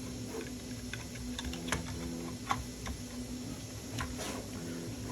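Scattered small, sharp clicks and taps of 3D-printed plastic parts and hardware being handled and fitted together by hand, over a faint steady hum.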